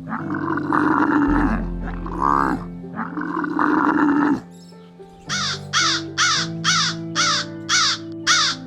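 Animal calls over background music with steady held notes: a few long calls in the first half, then a quick series of short, repeated calls, about two a second, starting about five seconds in.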